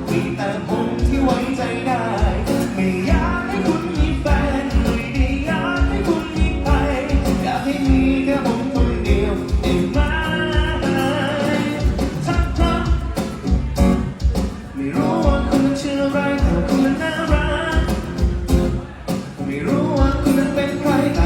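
A folk song with singing over a strong, regular bass beat, played through a sound system with an 18-inch subwoofer and 8-inch mid/high speakers.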